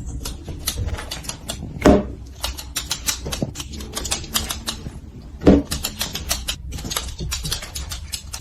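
Rapid, irregular clicking and tapping, several small clicks a second, with two louder knocks about two seconds in and about five and a half seconds in.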